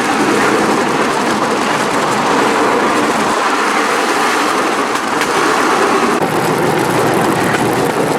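Bamboo train (norry) running on its rails: a steady mix of its small engine and the platform rattling along the track.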